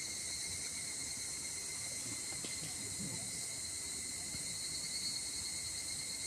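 A chorus of night insects trilling steadily and high-pitched, with a few faint small knocks underneath.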